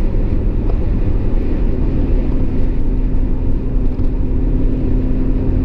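Steady rumble of a truck driving, heard from inside the cab: engine and road noise, with a steady hum joining about two seconds in.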